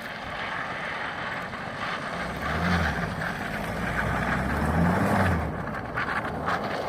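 2009 Subaru Impreza boxer diesel engine running cold, just after a cold start at −16°C, blipped up twice: about two and a half seconds in and again about five seconds in.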